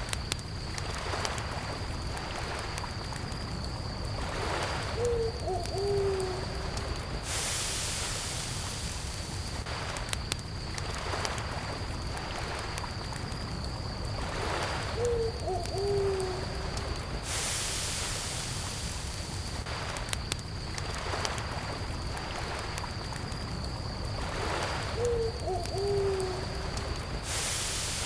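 Campfire crackling with soft lake waves washing in and a steady high cricket trill. An owl hoots three times, about ten seconds apart.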